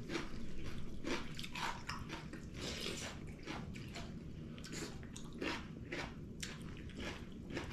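People chewing and biting food up close, a string of irregular short crunches.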